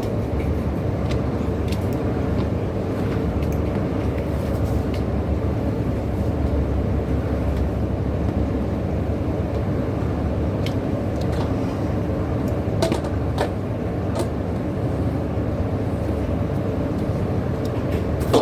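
Steady low rumble of a motor vehicle running, with a few faint clicks along the way.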